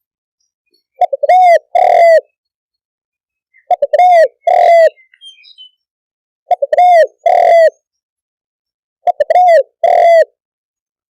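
Spotted dove cooing: four repeated call phrases, each a couple of quick short notes followed by two longer, arched coos. Faint brief chirps once between phrases.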